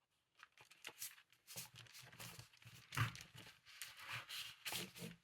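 Paper rustling and crinkling as it is handled, in irregular crackles that start about half a second in.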